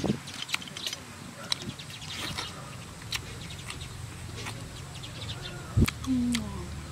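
Close-up eating sounds: a mouthful of food and raw vegetables being chewed, with irregular wet clicks and crunches, and one sharp louder smack about six seconds in.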